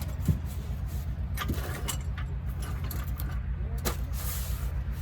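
A steady low rumble, with scattered light metallic clicks and taps over it.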